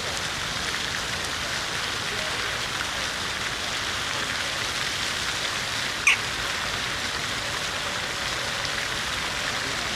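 City fountain's water splashing steadily. A brief high-pitched chirp stands out about six seconds in.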